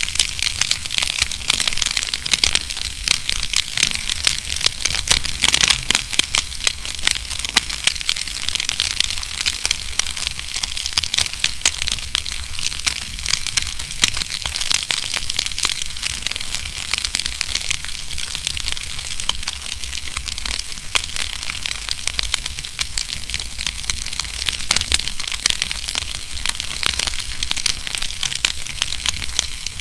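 Wood fire burning in a fireplace, with dense, irregular crackles and pops over a steady hiss.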